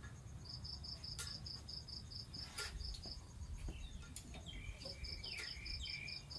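An insect, cricket-like, chirping in an even run of short high pulses, about five a second, in two bouts with a pause between; a few short bird chirps come in during the second bout, along with occasional sharp clicks.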